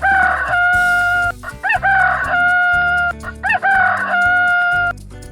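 Rooster crowing three times, each crow a short rising note that breaks into a long held one, over background music.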